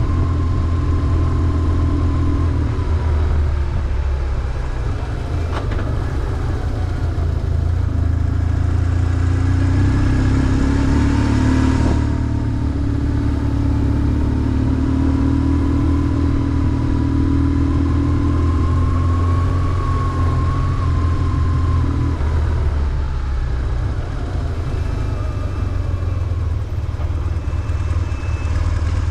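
BMW R1150GS's air/oil-cooled boxer twin running under way through city traffic. Its steady low exhaust note swells through the middle, and a thinner higher tone over it slowly rises and falls with road speed.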